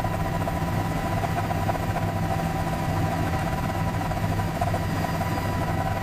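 A steady engine drone with a low hum and a constant higher whine, even in loudness throughout.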